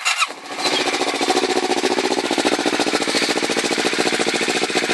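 2011 Kawasaki Ninja 650R's parallel-twin engine running for the first time through a newly fitted Yoshimura carbon-fiber slip-on exhaust: it catches and, within about a second, settles into a steady, rapid idle.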